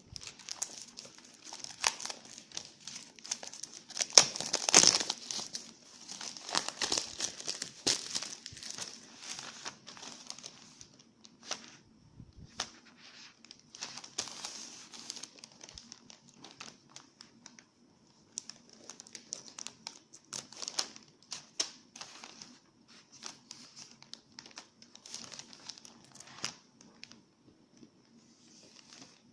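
Smartphone retail packaging being unwrapped and opened by hand: irregular crinkling, rustling and tearing with small clicks. It is busiest and loudest about four to eight seconds in, then sparser.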